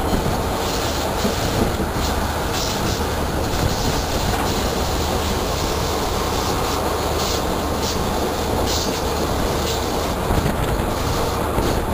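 Passenger train running along the track, heard from an open coach window: a steady rumble of wheels on the rails, with a light clack now and then.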